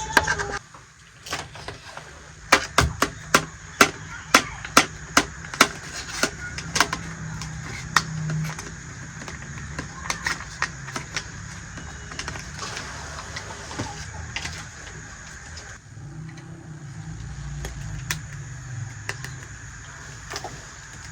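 Sharp clicks and taps of small plastic toy kitchen pieces being handled and set down: a quick run of about two a second a few seconds in, then scattered clicks, over a low steady hum.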